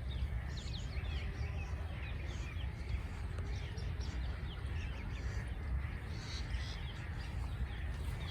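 Birds chirping: many short, quick notes overlapping throughout, over a steady low rumble.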